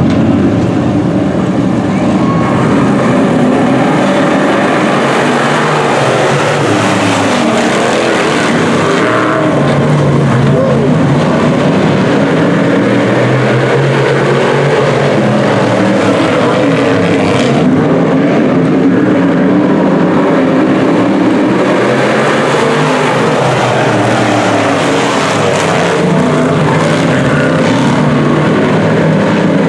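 A field of DIRTcar Sportsman dirt-track race cars running, their V8 engines revving up and backing off again and again as the pack goes around the oval.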